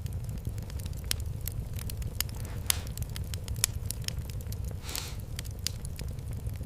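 Fireplace fire crackling, with scattered sharp pops over a steady low rumble and two short hisses, one near the middle and one near the end.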